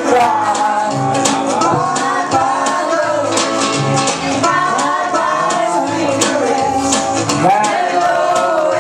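Karaoke: a singer's voice over a backing track with bass and regular percussion hits.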